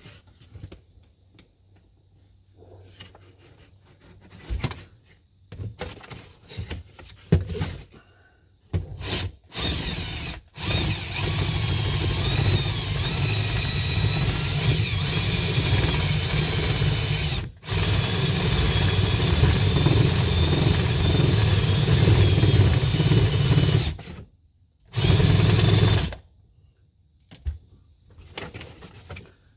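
A handheld power tool cutting a recess into plywood to seat a bolt, running steadily under load in long runs with one brief stop and a short final burst, after some scattered knocks from handling the work.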